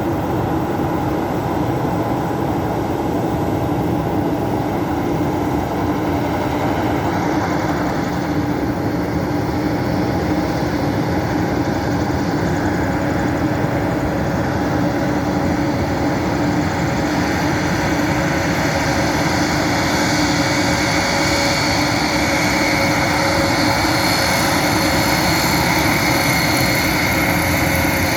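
Four TP400 turboprop engines of an Airbus A400M running, a steady drone with fixed tones. A higher hiss builds about seven seconds in and grows again later, and the sound gets slightly louder toward the end.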